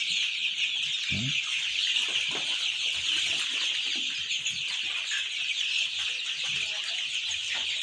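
A flock of young chickens peeping without a break, a dense high chorus, with scattered lower clucks among it.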